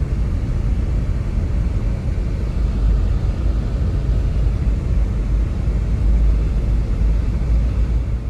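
Strong blizzard wind blowing steadily: a loud, deep rumble with a hiss above it, like gusts buffeting the microphone.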